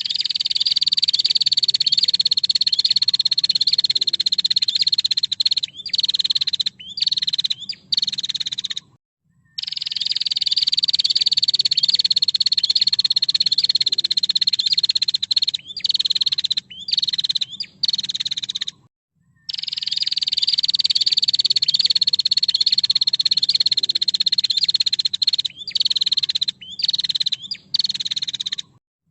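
Female prinia (prenjak) calling: a long, fast buzzing trill that slides slowly down in pitch for about five seconds, then a string of short broken buzzes. The same phrase repeats about every nine and a half seconds, three times, as in a looped song-tutor recording.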